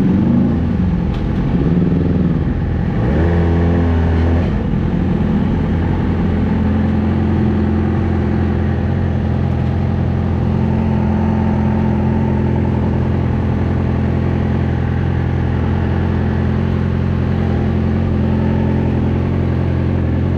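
Yamaha R6 inline-four engine breathing through a Two Brothers full exhaust system: its pitch rises and falls a few times in the first four seconds, then it settles into a steady idle.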